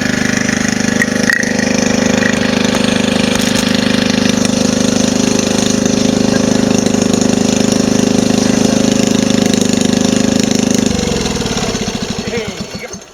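Engine running steadily, then switched off about eleven seconds in, winding down with slowing beats over a couple of seconds.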